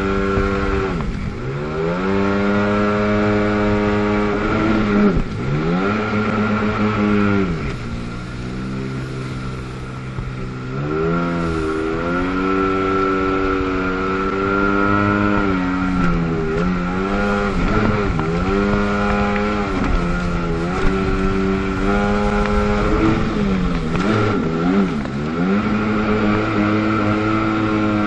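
The 720 cc two-stroke twin of a 1997 Sea-Doo GTS personal watercraft running under throttle, revving up and easing off again and again, its pitch dropping sharply about six times and climbing back each time. A steady high whine runs along with it.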